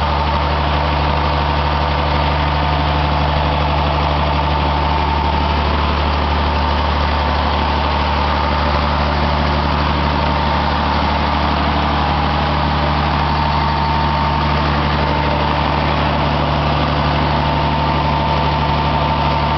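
Engine fuelled on 100% biogas, running steadily at idle with an even low hum and a thin steady whine above it.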